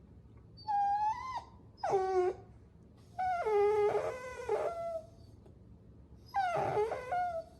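Puppies whining: four high-pitched whines, one sliding steeply down in pitch and the longest lasting about a second and a half.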